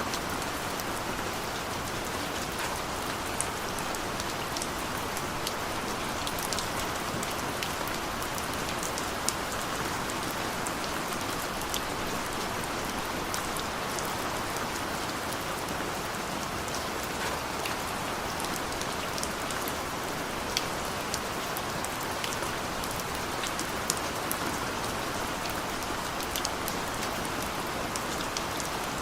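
Steady rain, with the sharp ticks of single drops hitting nearby surfaces scattered through it.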